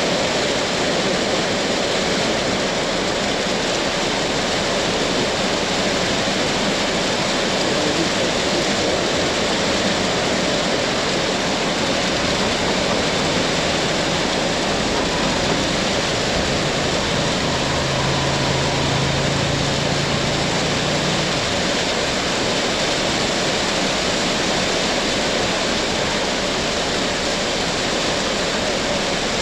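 Heavy tropical rain pouring down, a dense steady hiss of rain on the ground and surfaces. About halfway through, a low hum comes in for several seconds and then fades.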